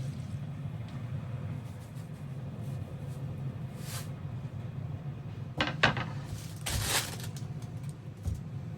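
A steady low hum, with a few knocks about six seconds in and a short burst of noise just before seven seconds.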